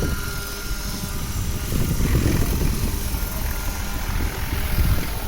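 Crop-spraying helicopter's rotor and engine running steadily, a loud, pulsing low rumble.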